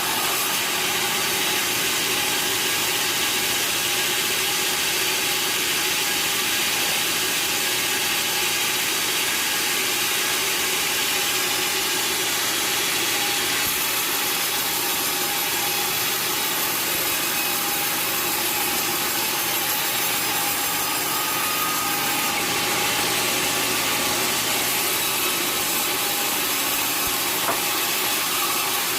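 Sawmill saw cutting through a log: a steady, even noise with a faint high whine.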